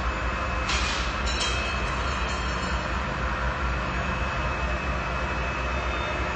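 Industrial laundry machinery running with a steady low hum and mechanical noise. A short hiss comes about a second in, followed by a few quick clicks.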